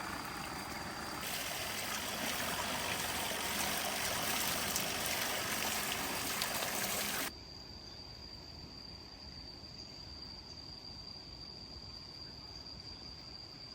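Water pouring and splashing from a bamboo irrigation water wheel into a stream and rice-field channels. It cuts off abruptly about seven seconds in, leaving an insect's steady high-pitched shrilling over quiet.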